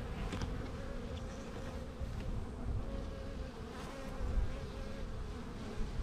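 Honeybees buzzing in an open hive: a steady hum from a calm colony.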